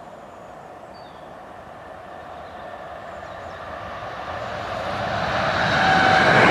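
Electric passenger train approaching over the level crossing, a rumbling rush of wheels on rail that grows steadily louder from about two seconds in and is loud near the end as the train arrives.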